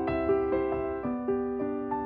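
Background music: a soft piano melody, single notes struck a few times a second and left to ring.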